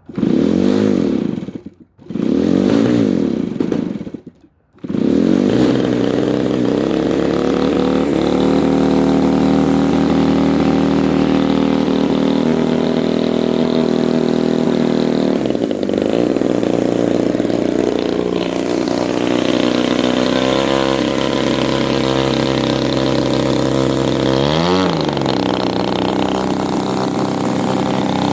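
DLE 30 single-cylinder two-stroke gasoline engine of an RC airplane, turning a 20-inch propeller, being started. It fires and dies twice in the first few seconds, then catches about five seconds in and runs steadily. Its speed briefly changes twice later on.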